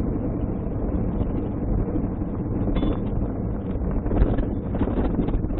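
Steady low rumble of a moving car's engine and road noise, with wind buffeting the dash-cam microphone and a few faint knocks in the second half.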